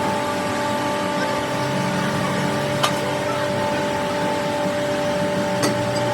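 Factory machinery running with a steady hum of several held tones, with two sharp clicks, one about three seconds in and one near the end.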